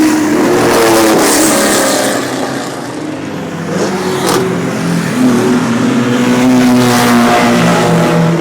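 Sports car engines accelerating and revving past, their pitch gliding up and down. The sound eases off about three seconds in and builds again in the second half.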